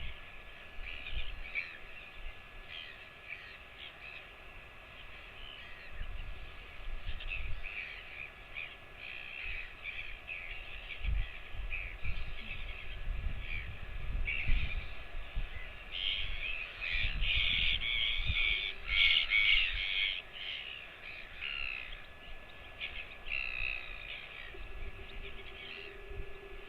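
Birds calling over and over in short, harsh calls, busiest about two-thirds of the way through, with scattered low thumps.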